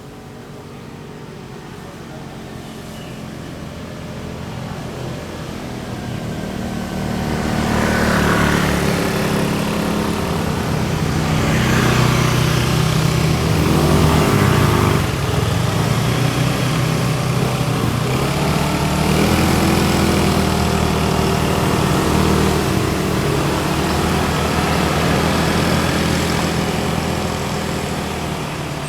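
A motor vehicle's engine running close by. It grows louder over several seconds, rises and falls in pitch several times as it revs, then slowly fades near the end.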